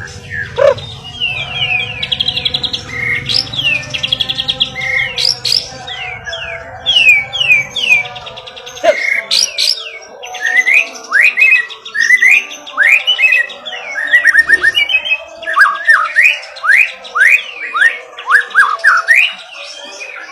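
White-rumped shama (murai batu) singing a varied song of rapid trills and repeated sharp, downward-sweeping whistled notes. A low hum runs underneath until about eight seconds in.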